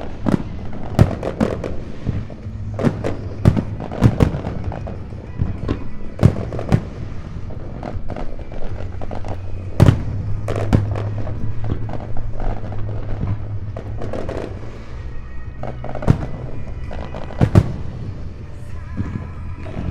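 Aerial fireworks shells bursting in quick succession, many sharp booms a second with a few louder ones, over steady background music.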